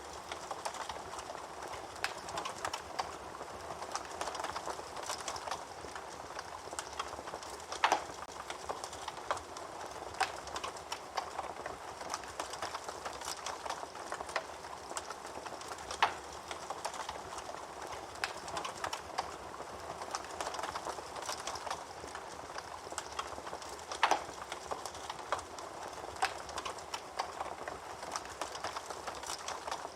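Wood fire burning in a fireplace: steady crackling with many small snaps and three louder pops, roughly eight seconds apart.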